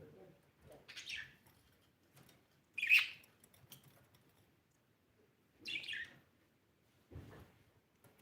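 Blue budgerigar (budgie) giving three short chirps, about a second in, about three seconds in (the loudest) and about six seconds in. A soft low sound follows near the end.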